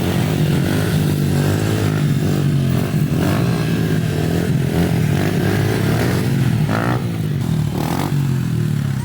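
Pit bike engine running as it is ridden, its pitch wavering up and down with the throttle.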